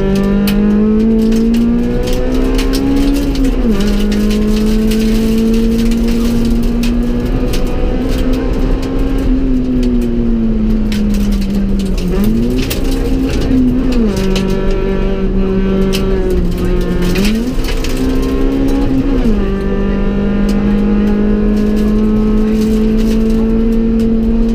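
Honda Civic EK4 rally car's four-cylinder engine, heard from inside the cabin, driven hard on a stage: the engine note holds mostly level, with several sudden drops and climbs in pitch along the way, over steady road noise.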